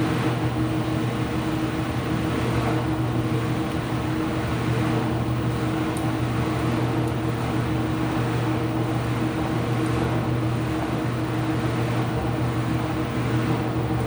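Ipso washing machine running mid-cycle: a steady motor hum with a few held low tones over an even whirring noise, with no change or rhythm.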